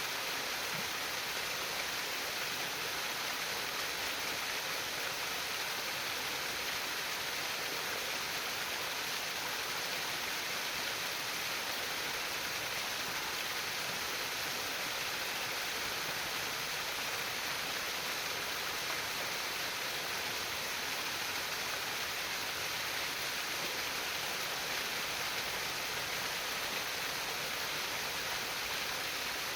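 Water babbling and trickling in a stream, a steady, even hiss that stays the same throughout.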